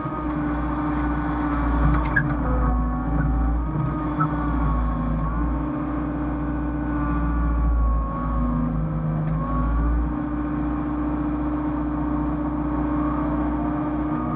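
Hyundai excavator's diesel engine running steadily, with a whine that wavers up and down in pitch as the machine works, and a couple of light clicks early in.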